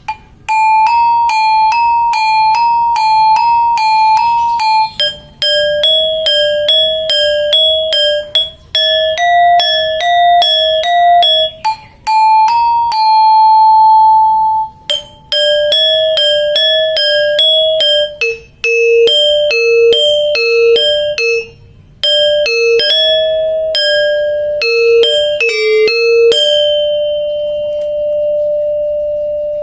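Balinese gangsa, a bronze-keyed metallophone, playing its basic polos part: single struck notes in an even beat over a few pitches, broken by short pauses, with the last note left to ring out near the end.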